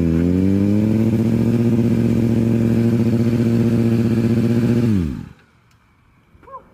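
Motorcycle engine running at high, steady revs, its pitch wavering slightly at first, then dropping away quickly about five seconds in as the revs fall and the sound fades out.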